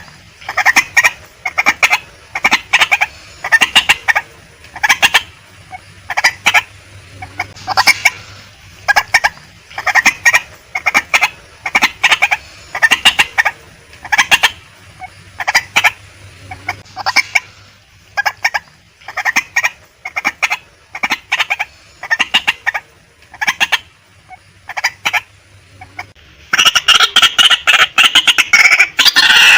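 Female white-breasted waterhen calling: a series of short, repeated call notes in clusters about once a second. Near the end the calling becomes a dense, continuous, louder run.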